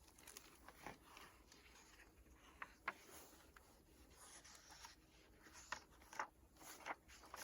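Near silence with a few faint short clicks and rustles scattered through it.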